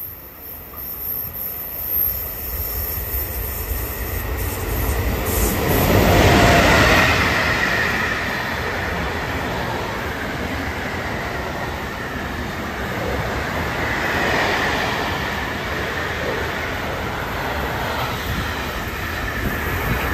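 Freight train of container and tank-container wagons passing close by, a steady running noise of wheels on rail. It builds from the start and is loudest about six seconds in, then carries on evenly as the wagons roll past.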